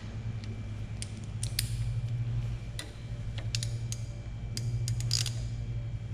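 Hand tools working on the engine: scattered, irregular metal clicks and clinks, over a steady low hum.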